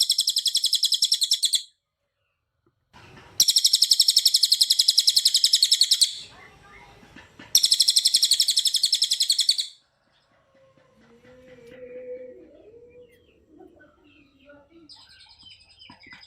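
A cililin songbird singing three bursts of very fast, rapid-fire trilled notes, each about two seconds long with short pauses between. After the third burst the song stops and only faint, scattered lower sounds remain.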